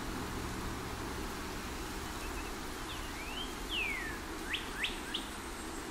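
A bird calling a few short whistled notes about halfway through: a rising slur, a longer falling slur, then three quick upward-sweeping notes. Under it runs a steady hiss of outdoor ambience with a low rumble.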